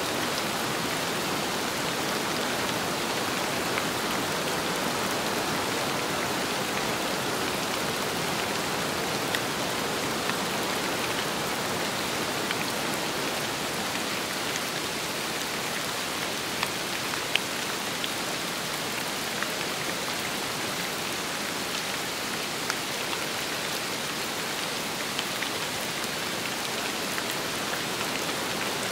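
Steady rain falling, with wind, and scattered single drops ticking out louder here and there.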